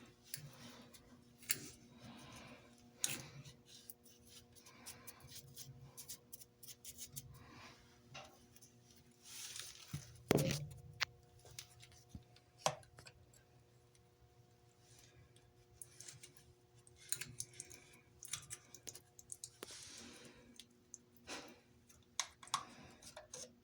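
Irregular clicks, knocks and rustles of things being handled, over a faint steady hum, with the loudest knock about ten seconds in.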